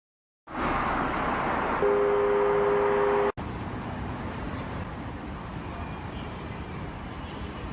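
Street traffic noise with a vehicle horn giving one steady two-tone honk of about a second and a half. The honk cuts off suddenly, leaving a quieter, steady traffic hum.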